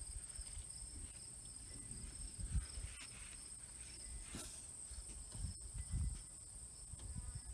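Insects chirping steadily in the background, a high continuous trill with a faster pulsing chirp beneath it, and a few soft low thumps.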